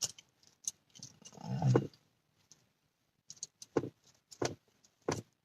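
Scattered soft clicks and taps, several close together in the second half, with a brief low hum of a voice about a second and a half in.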